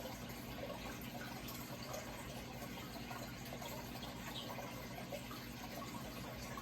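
Steady running water splashing and trickling, with a faint low hum underneath.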